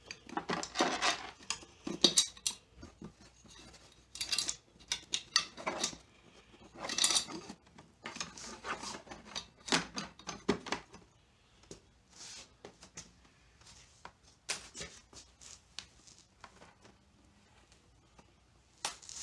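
A throttle cable being fed down through a scooter's frame: irregular scraping, rustling and sharp clicks as the cable and its housing rub and knock against metal and plastic parts.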